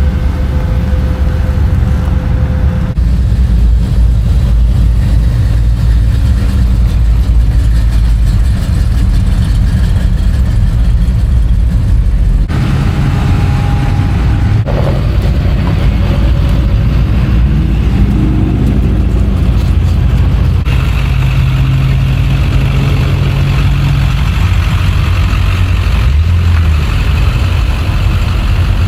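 Loud truck engines idling with a deep rumble, with a few short revs. It is heard as several separate clips, changing abruptly about 3, 12 and 21 seconds in.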